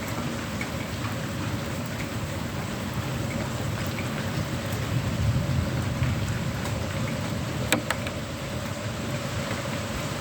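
Steady heavy rain during a thunderstorm, drops pattering on a surface, with one sharp tap about three-quarters of the way through.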